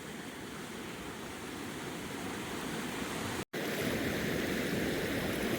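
Steady rush of flowing water. It is quieter at first, then cuts off for an instant about three and a half seconds in and resumes louder.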